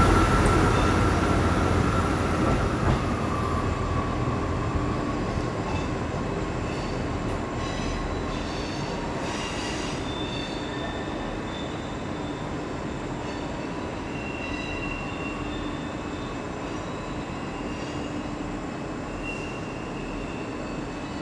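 A train moving through the station, its sound slowly fading. A steady whine drops a little in pitch a few seconds in, and short high wheel squeals come and go through the middle.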